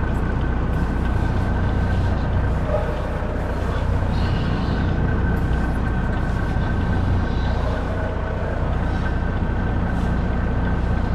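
Semi-truck's diesel engine running steadily at low speed while the truck reverses slowly up to a loading dock: a low rumble with a thin steady whine over it.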